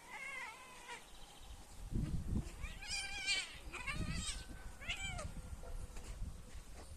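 A cat meowing about four times in short, wavering calls, with low thumps between them.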